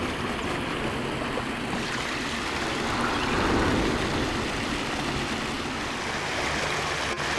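Steady rushing and splashing of a pond's man-made waterfall, a constant even wash of water noise that swells a little about halfway through.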